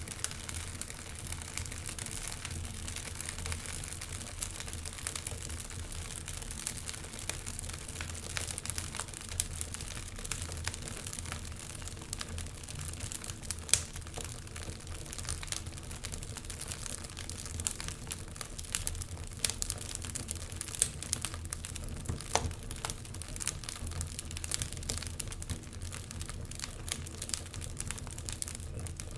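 Wood fire burning in a fireplace: irregular crackles and pops over a low steady rumble, with one sharper pop about 14 seconds in.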